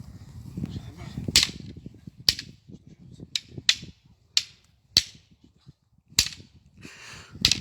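Wooden fighting sticks striking each other in sparring: about eight sharp cracks at uneven intervals, some in quick pairs.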